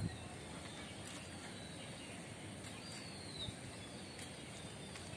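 Outdoor park ambience: a steady background hush with a few faint bird calls, the clearest a falling whistled note about three seconds in. A short low bump sounds right at the start.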